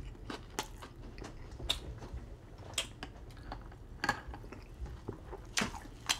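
Close-miked chewing of a mouthful of Burger King triple Whopper with cheese and bacon: irregular wet mouth clicks and smacks. About four seconds in, a sip through a metal straw.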